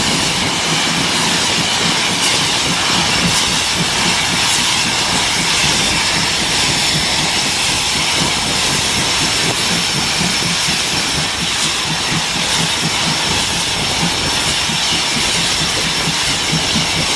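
Steam locomotive giving off a loud, steady hissing roar with a faint high tone held through it.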